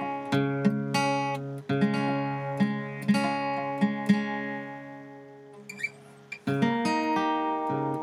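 Acoustic guitar music: plucked and strummed chords, thinning out briefly about two thirds of the way through before a new chord comes in.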